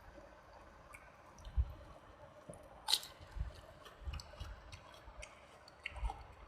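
Close-miked chewing of soft, wet food, with wet mouth clicks and soft low thuds, and one sharp click about three seconds in.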